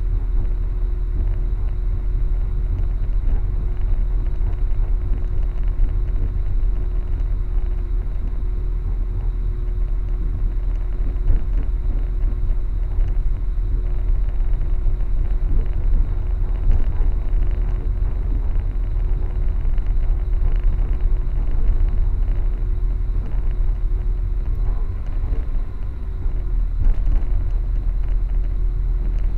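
Steady low rumble of a moving passenger train heard from inside the carriage, with a faint steady hum above it.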